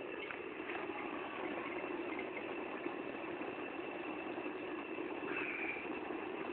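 Homemade foundry furnace firing with a steady rushing drone while it heats a crucible of scrap sterling silver that has not yet melted.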